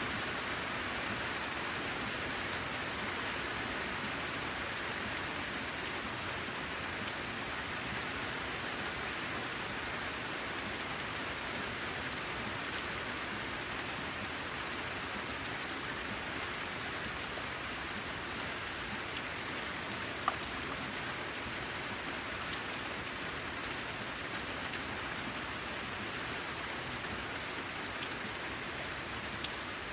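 Steady rain falling, an even hiss with scattered individual drops ticking out of it and one sharper drop hit about two-thirds of the way through.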